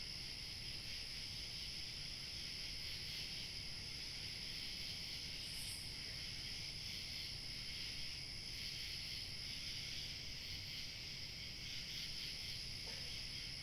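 Crickets chirping in a steady, unbroken chorus, with a faint low rumble of light wind beneath. One thin high trill drops out about ten seconds in and returns near the end.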